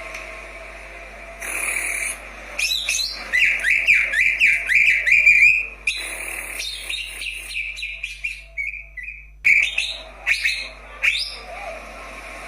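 A cucak ijo (leafbird) singing: a fast, loud run of varied whistled notes that bend up and down in the middle, with scattered shorter chirps and whistles before and after it.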